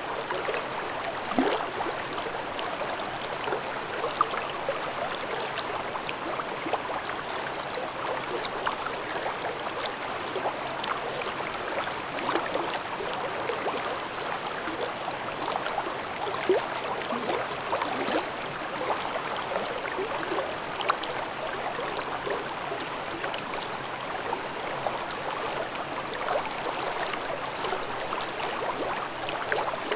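A mountain stream babbling over rocks: steady rushing water with frequent small splashes and gurgles.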